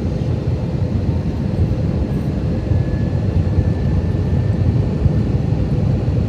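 Airbus A321-200 cabin noise on approach: a steady low rumble of engines and airflow heard from inside the cabin, with a faint steady hum over it.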